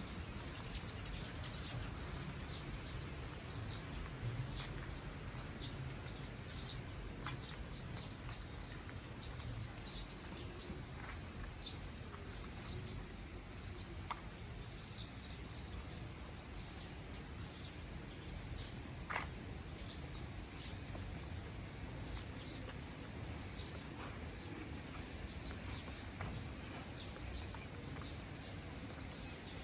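Small birds chirping in many short, high-pitched calls throughout, over a low steady rumble of outdoor background noise. A few sharp clicks stand out, the loudest about two-thirds of the way through.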